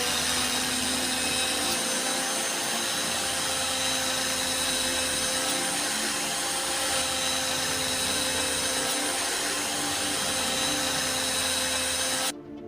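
Electric power tool running steadily, a motor hum with a hiss over it, then cutting off suddenly near the end.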